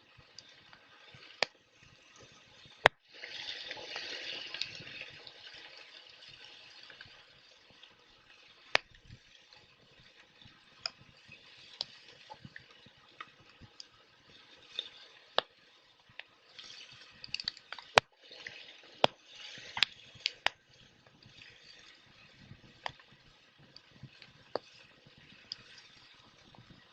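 Wood fire crackling: sharp pops and snaps at irregular intervals over a low hiss, with a louder hissing stretch about three seconds in and another cluster of pops and hissing about two-thirds of the way through.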